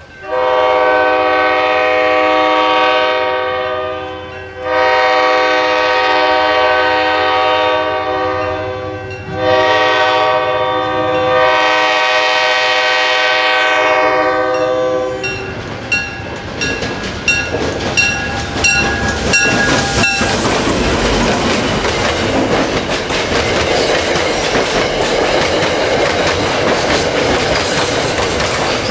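Train air horn sounding three long blasts, each a chord of several notes held for about four to six seconds. The horn then stops, and wheels click rhythmically over rail joints, with a short run of high dings. After that comes a steady loud rush of cars rolling past close by.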